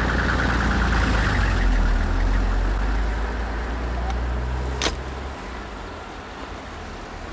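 A motor vehicle engine running close by with a loud, steady low rumble that eases off after about three seconds. A sharp click comes near five seconds in, and the deepest part of the rumble stops soon after.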